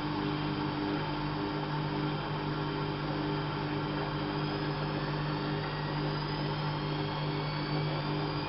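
Bauknecht WAP 6460 washing machine running: a steady motor hum with a faint high whine that creeps up in pitch near the end.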